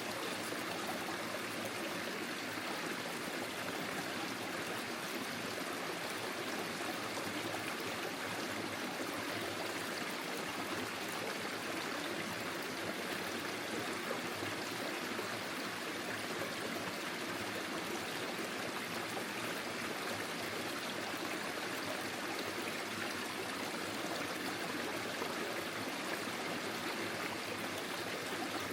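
Small forest stream flowing steadily over stones: an even, unbroken rush and trickle of running water.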